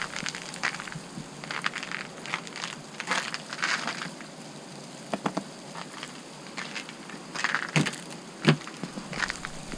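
Ice glaze crunching and cracking in a run of irregular crunches, with two sharper, louder cracks near the end.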